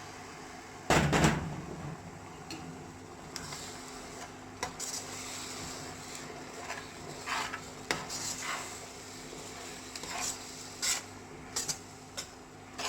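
A metal spoon stirring and scraping in a pan of curry gravy just after tamarind water has been added, with scattered clinks against the pan. A loud thump about a second in stands out above the rest.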